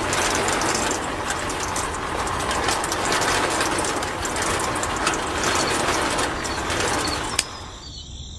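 Small electric motor and gears of a DIY model tractor whirring with a dense rattle of clicks. The sound stops with a sharp click about seven seconds in.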